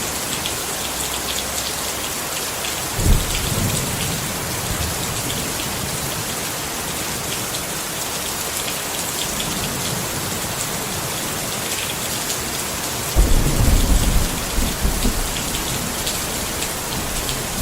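Steady rain falling on a tent, with many small drop ticks over an even hiss. Low thunder rumbles in twice: briefly about three seconds in, and longer and louder from about thirteen seconds for a couple of seconds.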